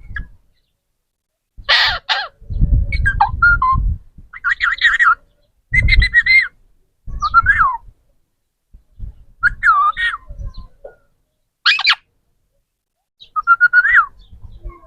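A parrot giving a series of about eight short squawks and whistled calls, with brief pauses between them, some with a low rumbling noise alongside.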